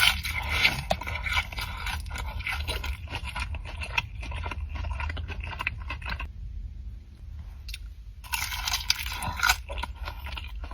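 Close-up eating sounds: someone chewing and crunching a mouthful of sushi, with many small wet mouth clicks and louder crunches at the start and again near the end.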